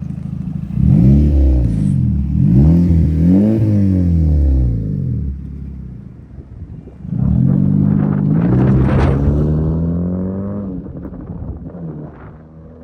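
2012 Honda Civic's 1.8-litre four-cylinder engine revved through its exhaust: two quick blips, then a longer rev that is held and falls away, with crackles and small pops as the revs drop near the end.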